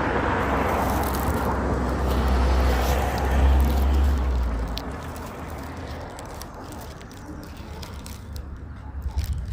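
A road vehicle passing, a low rumble with road noise that swells through the first few seconds and fades away about five seconds in, leaving quieter background.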